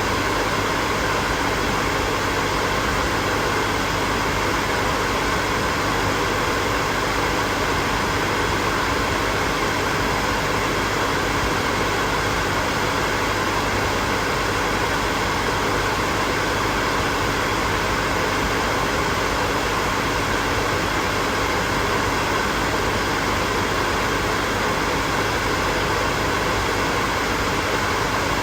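Hair dryer running continuously, a steady whooshing blow of air with the hum of its motor, unchanging throughout.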